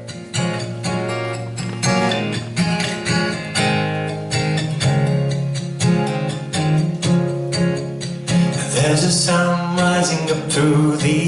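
Acoustic guitar strummed steadily, playing the introduction to a worship song. A singing voice comes in over it about eight or nine seconds in.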